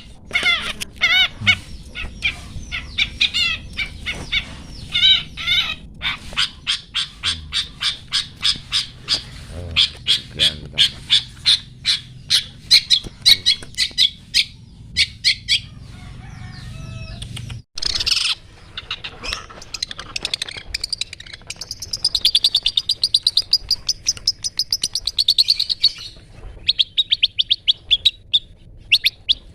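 A songbird calling in a long series of short, sharp, repeated 'toet toet' notes, several a second, which runs into a fast trill about three-quarters of the way through.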